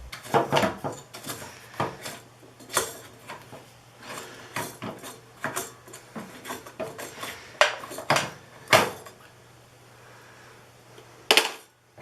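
Irregular hard plastic clicks, knocks and scrapes as the drain-pump filter of a front-loading washing machine is worked loose and pulled out, over a faint low steady hum.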